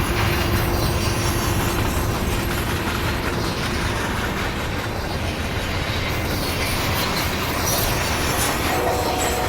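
Intermodal freight train rolling past at speed: a steady rumble and rush of steel wheels on rail, with a few faint steady tones coming in near the end.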